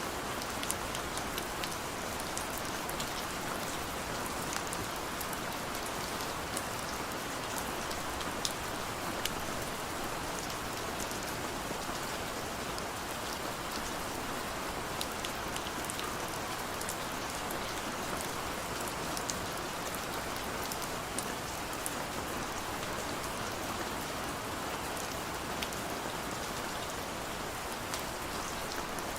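Heavy rain falling steadily, a dense even hiss with the sharp ticks of individual drops striking a surface.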